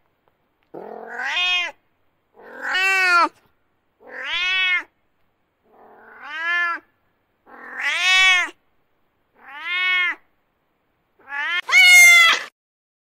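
Domestic cat meowing: seven drawn-out meows about a second and a half apart, each rising then falling in pitch, with silence between. The last, near the end, is louder and harsher.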